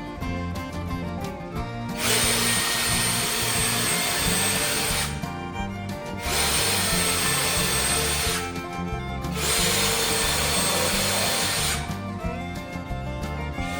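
An electric power tool running in three bursts of about two to three seconds each, with a steady high whine, over background music.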